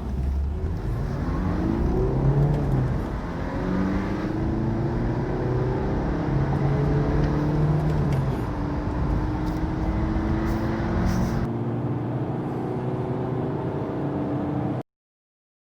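Car engine accelerating hard from a standstill through the gears. Its note climbs steadily in each gear and drops at each shift, roughly every four seconds, then stops abruptly near the end.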